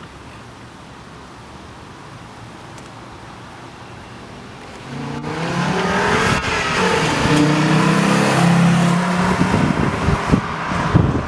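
Modified VW Golf Mk4 V5, its 2.3-litre five-cylinder engine breathing through an aftermarket exhaust, driving past loudly about five seconds in. The engine note climbs as the car comes near and then holds steady as it passes. Wind buffets the microphone near the end.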